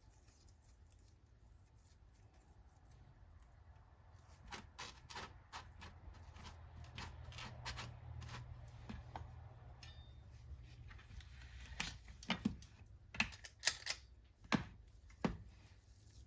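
Cookie dough being scooped with a cookie scoop and worked into balls: a run of light clicks and taps, then several louder, sharper clicks near the end, over a low steady hum.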